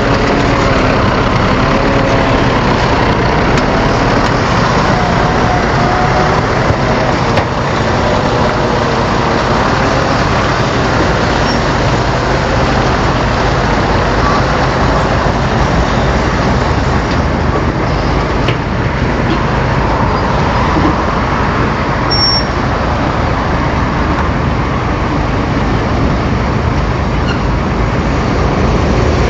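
Bulldozer's diesel engine running at working revs, a loud steady din with its pitch wavering up and down over the first several seconds.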